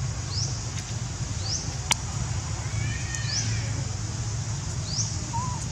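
A bird calling: a short, high, rising chirp repeated about every second and a half, over a steady low hum. There is a sharp click about two seconds in.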